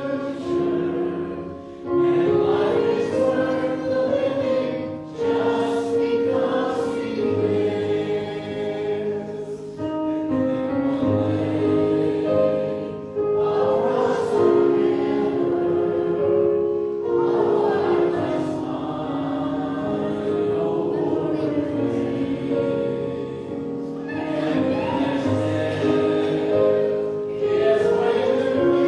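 Choir singing a sacred piece in several voice parts, with long held notes in phrases that break every few seconds.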